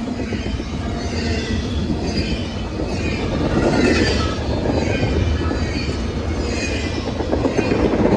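A train rolling by, its wheels running on the rails with a steady rumble and a thin, high wheel squeal coming and going over it.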